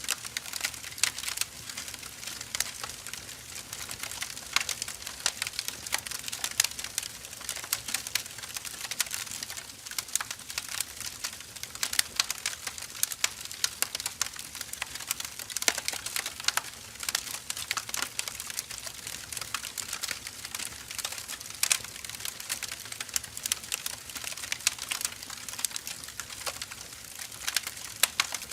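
Firewood logs burning with a steady hiss and many irregular sharp crackles and pops.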